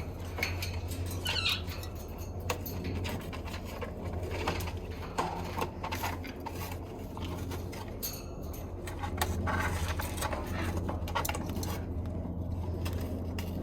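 Faint, brief parrot chirps among scattered small clicks and rustles, over a steady low hum.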